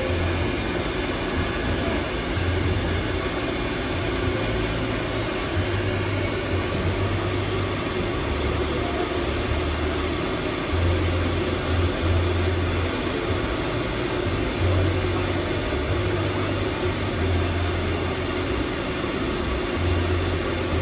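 XY-AI-400 automatic toilet paper band saw cutting machine running: steady mechanical noise, with a low hum that cuts in and out in blocks of one to two seconds.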